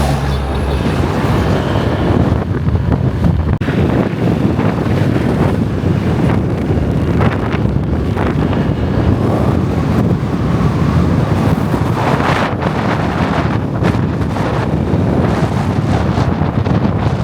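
Heavy wind buffeting the microphone on a moving motorbike, a loud steady rush with the bike's running noise underneath.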